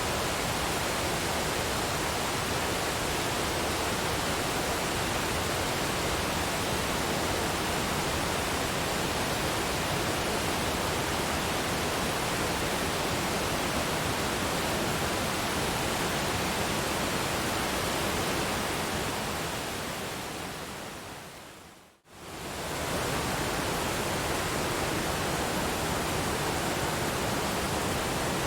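Waterfall rushing as a steady, even roar of water. About 20 seconds in it fades smoothly down to near silence and then swells quickly back to full level, like a dip where a looped recording joins.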